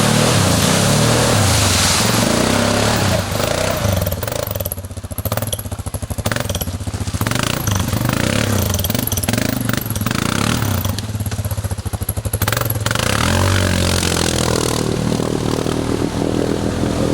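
ATV engine running under varying throttle, twice dropping back to a low, pulsing idle before picking up again.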